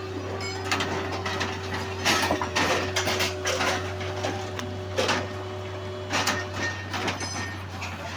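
Railway sleeper replacement work: irregular knocks and scraping over a steady low hum, with a faint steady tone that stops about six and a half seconds in.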